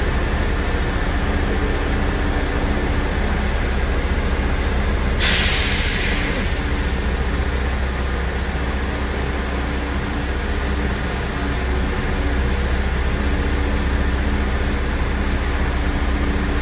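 A train's engine running with a steady low rumble at the platform, and a sharp hiss of air from a train about five seconds in that fades over about a second.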